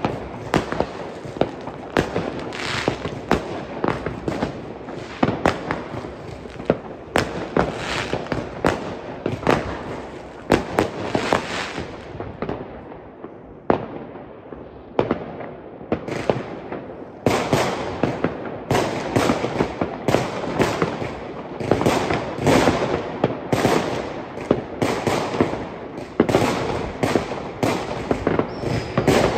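Fireworks and firecrackers going off all over a city at once: a dense, continuous barrage of bangs and cracks that thins out for a few seconds about halfway through, then picks up again.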